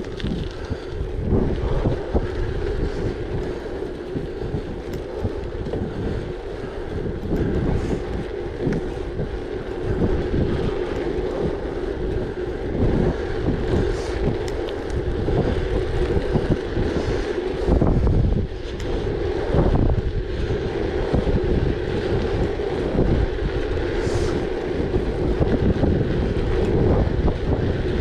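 Wind buffeting the microphone over the steady rumble of a gravel bike's tyres rolling on a rough track, swelling and easing with gusts and bumps.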